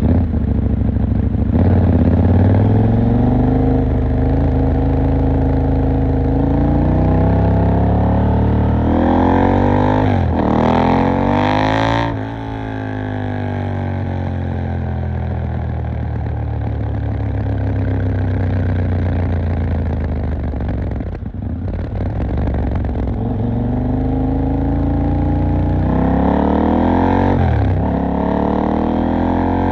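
KTM 890 Duke R's parallel-twin engine under way: revs climb in rising sweeps through the first twelve seconds, then the throttle shuts and the revs fall away, with a brief drop about twenty-one seconds in before the engine pulls up again near the end.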